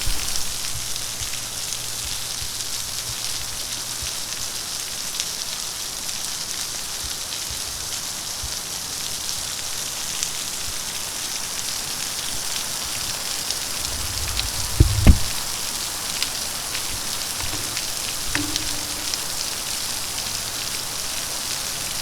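Steady hiss of running, splashing water from a park water feature. A brief low thump about fifteen seconds in.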